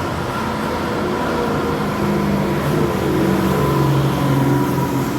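A motorcycle engine running close by over street traffic noise, its hum coming up about two seconds in and growing louder.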